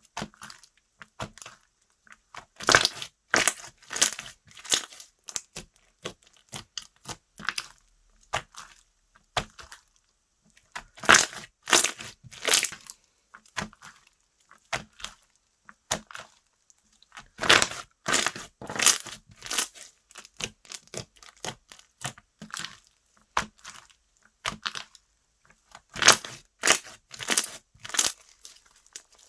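Slime being squeezed and stretched by hand, making runs of sticky clicks and crackles. The clicks come in louder clusters about 3 seconds in, from about 11 to 13 seconds, from about 17 to 20 seconds, and again near the end.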